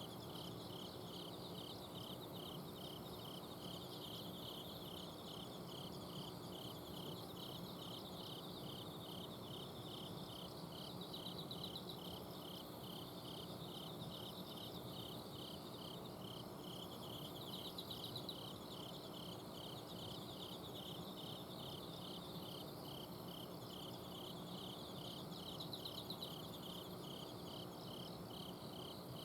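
Night chorus of autumn insects: one cricket chirping steadily, about two chirps a second, while higher trills from other insects rise and fade now and then. A steady low hum from an air-conditioner outdoor unit runs underneath.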